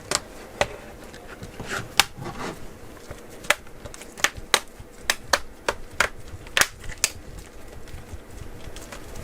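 Irregular sharp clicks and taps of the plastic parts of a Medion Akoya tablet being handled, with the battery cover being fitted back on, about a dozen clicks, some louder than others.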